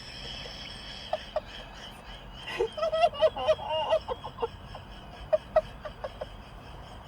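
Quiet voices nearby, stifled giggling and murmuring, in short bursts with a busier stretch a little past halfway.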